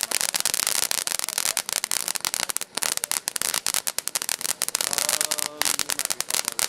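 Consumer firework going off in a dense, rapid string of small pops and crackles that carries on through the whole stretch, with only brief dips.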